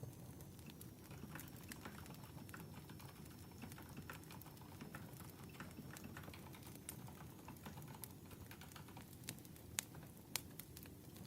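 Wood fire crackling softly over a low steady rumble, with irregular small clicks and a couple of sharper pops near the end.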